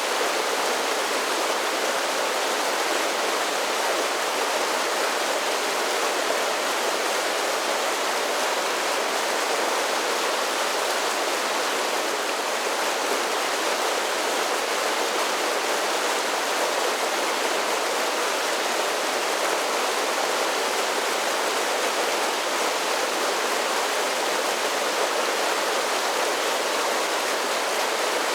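A mountain creek pouring down a series of small waterfalls: a steady, even rush of water with no change in level.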